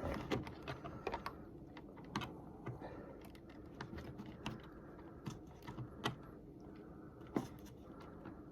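Faint, irregular small clicks and taps of plastic parts as an HO-scale model train car is handled and its wheels are fitted onto the track, with one louder click about seven and a half seconds in.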